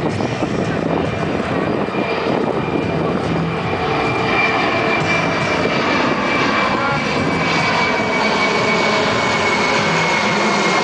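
Jet noise from the Boeing C-17 Globemaster III's four Pratt & Whitney F117-PW-100 turbofans as it flies by. The engines run loud and steady, with a high whine that grows stronger about four seconds in and sinks slightly in pitch.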